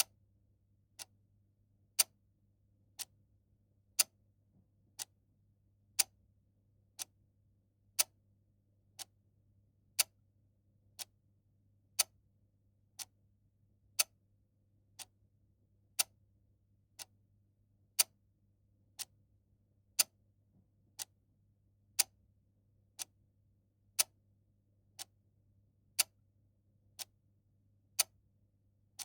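Clock ticking steadily once a second, the ticks alternating louder and softer in a tick-tock pattern, over a faint low hum.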